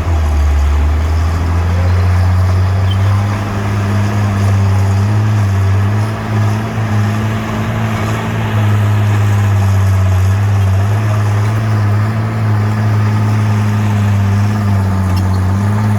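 Bulldozer's diesel engine running steadily, its low drone wavering slightly in pitch.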